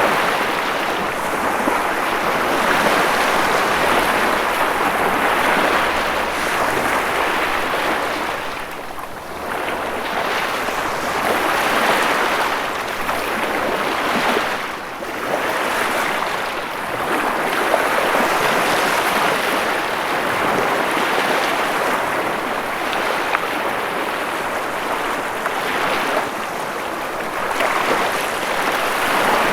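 Ocean waves breaking and washing on a shore, a continuous rushing surf that swells and ebbs every few seconds, with brief lulls about nine and fifteen seconds in.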